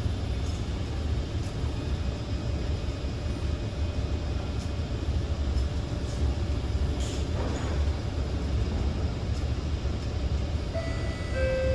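Steady low hum and rumble inside a Kawasaki C151 train standing at a station, with a few faint clicks. About a second before the end, a steady two-tone chime begins, the lead-in to the door-closing announcement.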